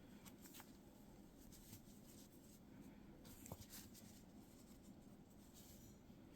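Near silence, with faint soft rustles and a few light ticks of yarn being worked with a crochet hook.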